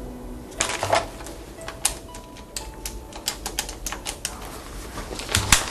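Typing: a run of irregular clicking keystrokes, with a few louder clacks about a second in and near the end.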